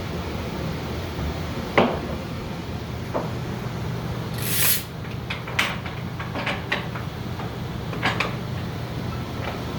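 Tie-down straps being fastened on an ATV: scattered clicks and knocks of buckle hardware, with a short rasp about halfway through as strap webbing is pulled tight, over a steady low hum.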